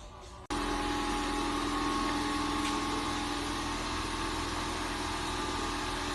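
A motor or engine running steadily with a constant hum, cutting in suddenly about half a second in.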